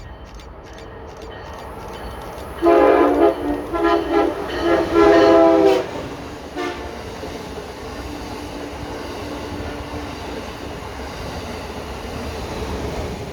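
Multi-chime train horn sounding a quick run of short blasts and then a longer one, starting about three seconds in, with one brief toot a second later. After that, the steady rumble of the train's wheels on the rails as it passes.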